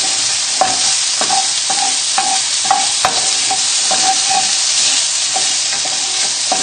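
Diced bacon, shallots and garlic sizzling in a non-stick pan on high heat, with a spatula scraping and knocking against the pan about twice a second as the food is stirred to keep it from sticking.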